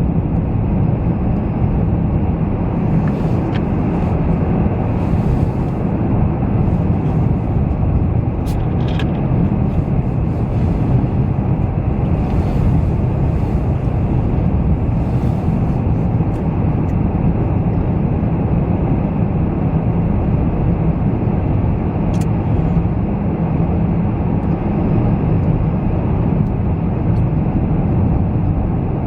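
Steady in-cabin drone of a car driving on a snow-covered highway: a continuous low engine and tyre rumble.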